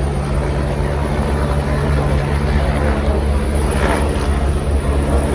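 A steady, low engine drone of unchanging pitch over a constant wash of noise, with a brief swell a little after the middle.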